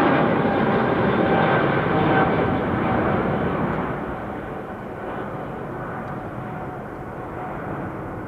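Jet airliner engines running loud with a faint steady whine, the noise falling away about four seconds in as the aircraft moves off.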